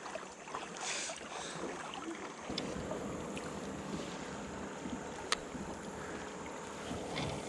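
Steady water noise around a kayak on the river, with wind on the microphone and a single sharp click about five seconds in.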